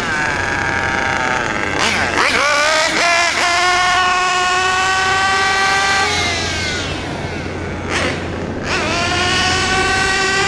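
Nitro glow engine of a Kyosho Inferno MP9 1/8-scale RC buggy running hard and revving up and down as the car is driven, the pitch dropping off around six seconds in and climbing again after a brief burst of noise near eight seconds. The engine is freshly broken in and on its first tuning run.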